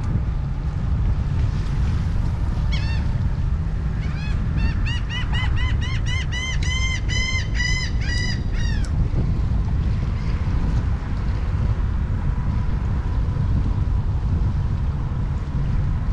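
Wind rumbling on the microphone, and from about three seconds in a bird calling loudly in a rapid run of repeated notes, about three a second, each rising and falling in pitch, stopping about nine seconds in.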